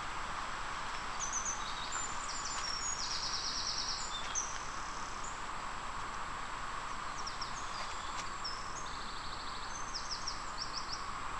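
Songbirds singing high, short whistles and quick trills in two bouts over a steady hiss of outdoor background noise.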